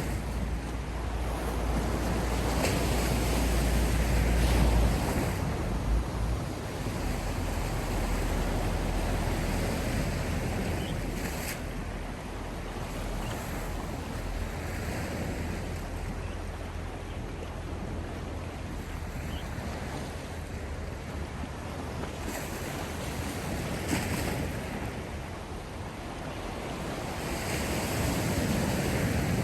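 Sea waves washing in and drawing back, swelling and fading over several seconds at a time, with low wind rumble on the microphone that is strongest in the first few seconds.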